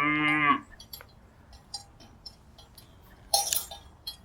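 Buffalo mooing: a short low call that ends about half a second in. Faint clicks follow, then a brief breathy burst near the end.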